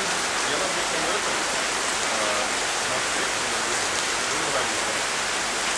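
Rain falling steadily, an even, dense hiss with no let-up, with faint voices underneath.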